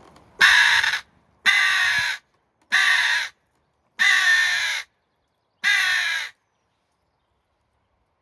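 Heke hooded crow call, a mouth-blown game call sounded with a rolled tongue, giving five loud, separate crow caws of under a second each, imitating a hooded crow.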